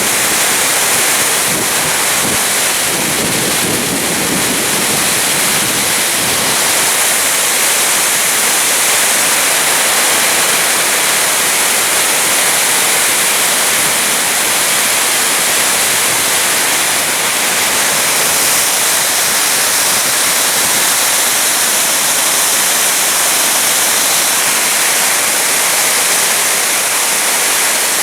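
Steady, loud rushing of moving water, an even hiss that holds unbroken throughout.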